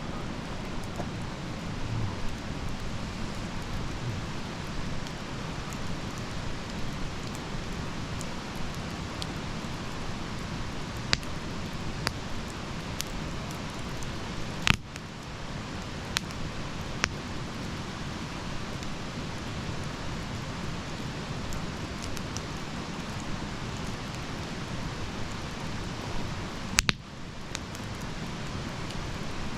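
Wood campfire burning with a steady hissing crackle and scattered sharp pops, the loudest about halfway through and near the end.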